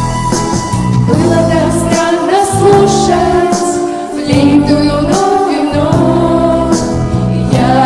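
Pop song: several voices singing a melody together over a backing track with a steady beat.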